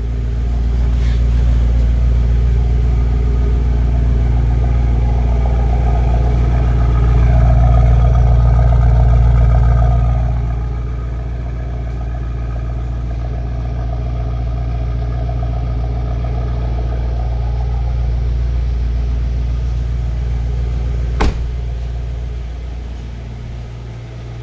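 Mercedes-AMG S63's twin-turbo V8 exhaust under way: a deep drone that grows louder over the first ten seconds, then drops back and runs steadier at a lower level. A single sharp click about 21 seconds in.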